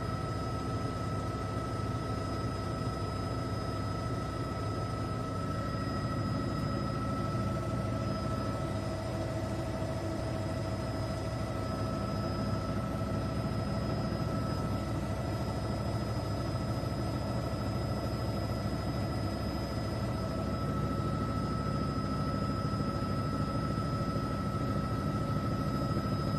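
Helicopter engine and rotor noise heard from inside the cabin: a steady, unbroken drone with constant high whining tones over it.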